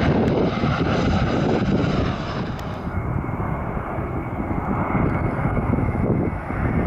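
Airliner passing on its landing approach, a loud, steady engine rumble; about three seconds in the hiss of the engines falls away, leaving the deep rumble and a faint steady whine.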